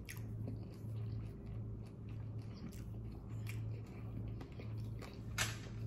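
A person chewing food close to the microphone: soft irregular mouth clicks and smacks, one louder smack near the end, over a low hum.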